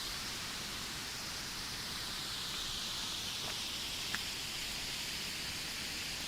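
Steady rushing of a waterfall, an even hiss of falling water, with one brief click about four seconds in.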